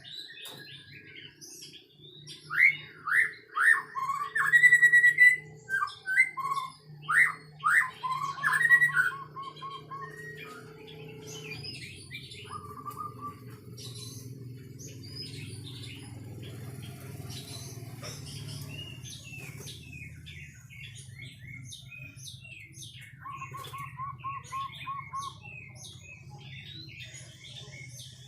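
White-rumped shama (murai batu) singing: loud, clear whistled phrases with rising and falling notes and a quick run of repeated notes, then softer twittering with another short run of repeated notes near the end. A steady low hum runs underneath.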